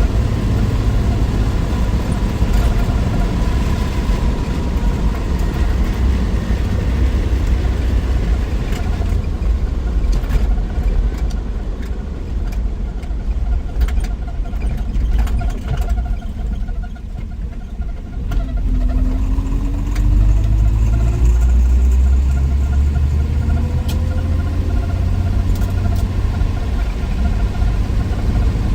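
1963 Willys Wagon's 230 Tornado overhead-cam six running under way, with road noise. It eases off for a moment past the middle, then climbs in pitch as the wagon accelerates.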